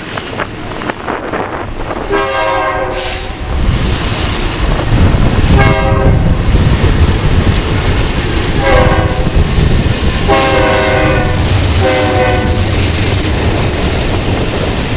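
BNSF freight diesel locomotives on an intermodal train pass close by, the lead unit's air horn sounding five blasts, two long and three short. The engines' heavy rumble swells as they go by, and the double-stack container cars follow with steady wheel-on-rail noise.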